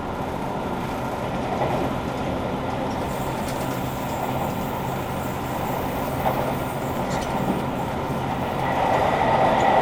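JR Kyushu 883 series electric train running, with the rumble of the ride and steady tones from its Toshiba GTO-thyristor VVVF inverter and traction motors. It grows louder near the end.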